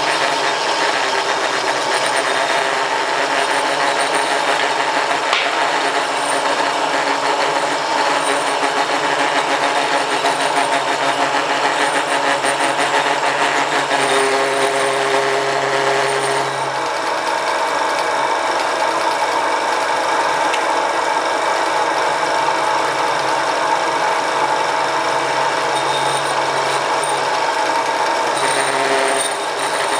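Home-built mini lathe with a 1 hp (750 W) single-phase motor running under a cut, a steady mechanical whine with rattling. The rattle comes from the lathe not being bolted down and resting on two pieces of wood. The sound thins a little past halfway through.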